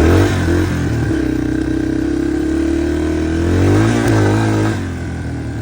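Dirt bike engine running under way on a trail, held steady for a few seconds, then revved up and back down about four seconds in, easing off near the end.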